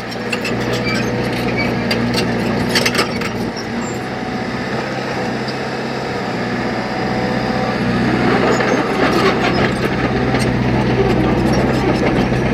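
Heavy earthmoving machinery running steadily, with scattered clanks and knocks.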